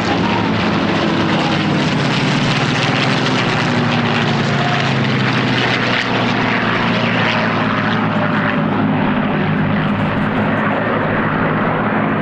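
Piston-engined propeller aircraft flying a display pass, its engine running loud and steady. The engine note drops a little in pitch over the first few seconds.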